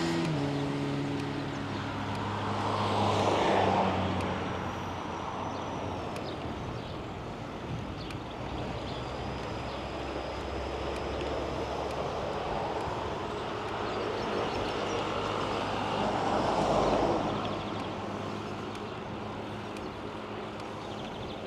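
Road traffic: motor vehicles passing, one swelling and fading about three seconds in and another near seventeen seconds, over a steady low engine hum and tyre noise.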